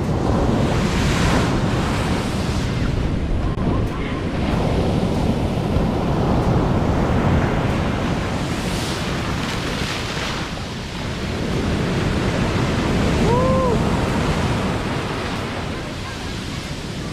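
Large surf waves breaking and washing up the beach, the noise swelling and easing every few seconds, with wind buffeting the microphone. A brief rising-and-falling cry is heard about thirteen seconds in.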